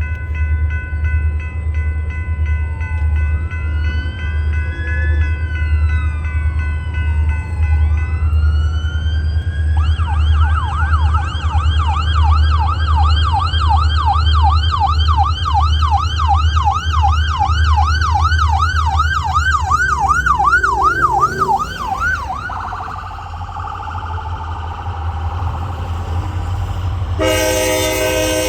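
Ambulance siren wailing in slow rising and falling sweeps, then switching to a fast yelp of about four cycles a second that cuts off after roughly twelve seconds. It sounds over the low rumble of a train's diesel locomotives, and a locomotive horn starts to blow near the end.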